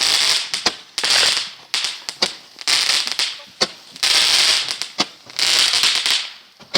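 Fireworks going off: loud hissing bursts about once a second, each starting suddenly and fading, with sharp cracks between them.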